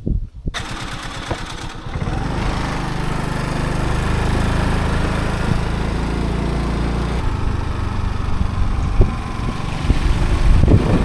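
Motorbike engine running steadily while riding, with wind and road noise over it; the engine note starts about half a second in and eases off about seven seconds in.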